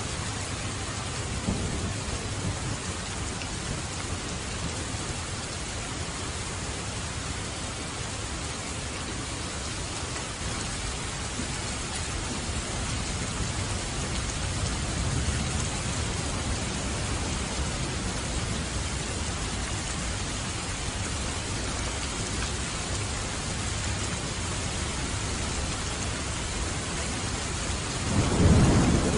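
Steady heavy rain with thunder rumbling low in the background, swelling into a louder, closer roll of thunder near the end.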